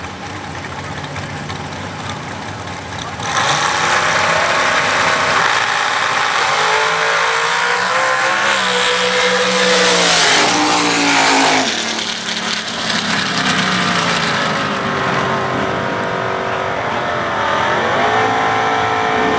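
A pair of drag racing cars launching about three seconds in and running hard down the strip. The engine pitch climbs and drops through the gear changes.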